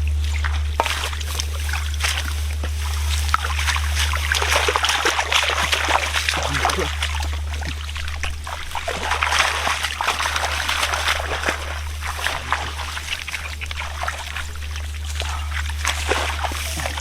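Shallow muddy water splashing and sloshing irregularly, as from wading and handling catfish in a flooded rice field, over a steady low hum.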